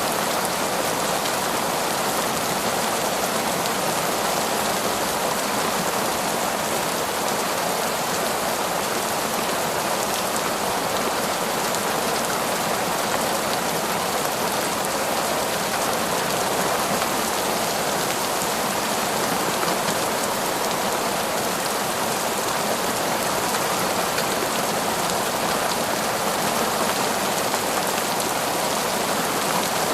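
Heavy, steady rain falling, an even hiss with no single loud drops or thunder.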